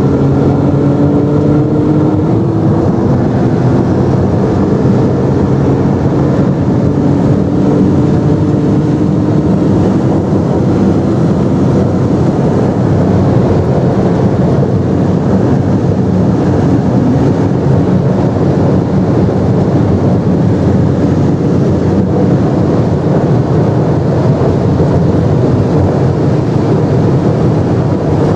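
Porsche GT2's twin-turbocharged flat-six with a QuickSilver exhaust, heard from inside the cabin pulling at very high speed: a loud, steady engine drone under heavy wind and road noise, its pitch creeping up over the first ten seconds or so.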